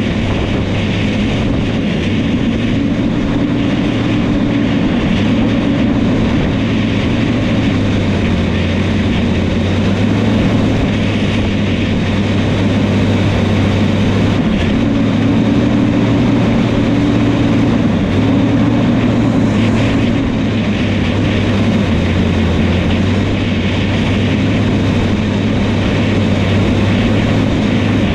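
New Holland crawler dozer's diesel engine running steadily while working, its engine note dipping and rising slightly every few seconds.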